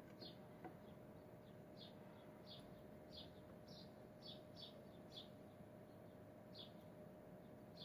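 Near silence, with faint, short high chirps of a bird repeating irregularly over a low steady hum.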